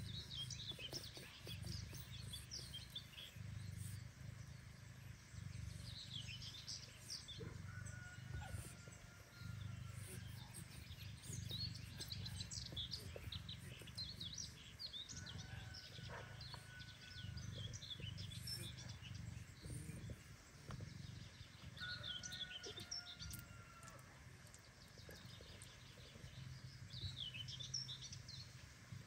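Small birds chirping in quick repeated bursts, with a few short thin whistles, over a low rumble that swells and fades about every second or two.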